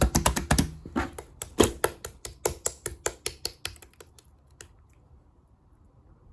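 Clear slime being pressed and pulled by hand, giving a quick run of sharp pops and clicks from trapped air, thinning out and stopping after about four seconds.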